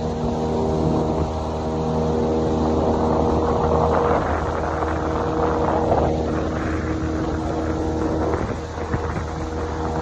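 Motorboat engine running steadily under way, with water and wind rushing past that grows louder for a few seconds in the middle.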